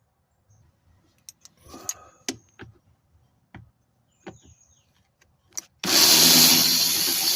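Scattered clicks and knocks of tools being handled, then a power tool runs for about three seconds, loudly at first and then fading, backing out a 10 mm bolt on the plastic underbody shield.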